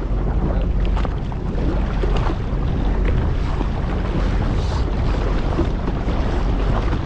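Sea-Doo Fish Pro jet ski running steadily at slow speed, a low even hum, with wind buffeting the microphone and water noise over it.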